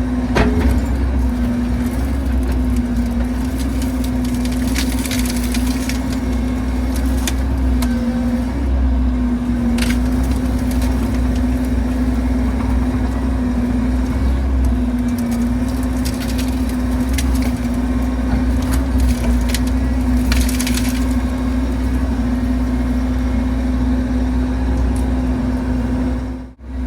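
Bobcat E60 compact excavator's diesel engine running steadily under hydraulic load, a constant hum that wavers slightly in pitch, while wood cracks and splinters now and then as the machine works the storm-damaged apple tree.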